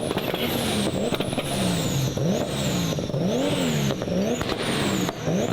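Modified car engine being revved repeatedly while stationary, its pitch climbing and falling several times in a row.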